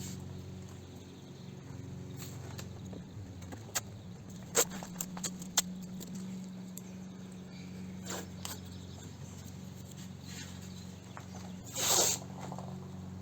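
Masking tape being handled on the car's body: a few light clicks and taps, then one short, loud rasp of tape pulled off the roll near the end, over a steady low hum.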